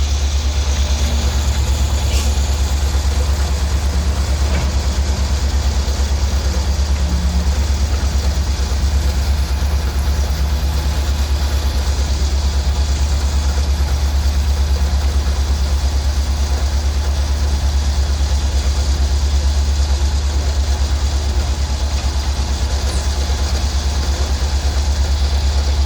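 An engine idling close by: a steady, low drone that holds unchanged throughout.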